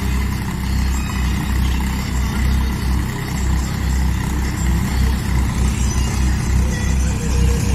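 Force Orchard DLX LT tractor's diesel engine running, a steady low throb with an uneven pulse.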